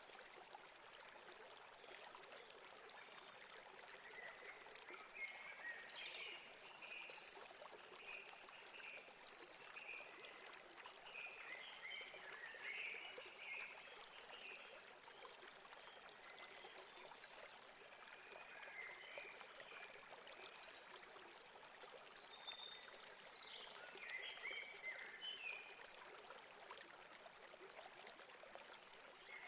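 A river or stream flowing steadily over rocks, faint and even. Birds chirp over it in short runs, first a few seconds in and again near the end.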